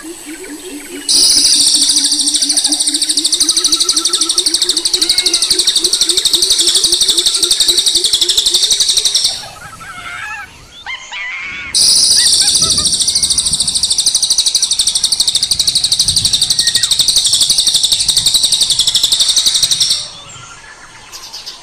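A loud, high-pitched buzzing animal call in two long stretches of about eight seconds each, with a lower rapid trill under the first stretch and faint chirps in the pause between them.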